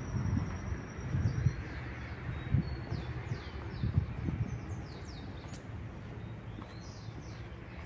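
Songbirds calling outdoors: one long steady high whistle at the start, then many short falling chirps. Irregular low rumbling bumps on the microphone in the first half ease off after about four seconds.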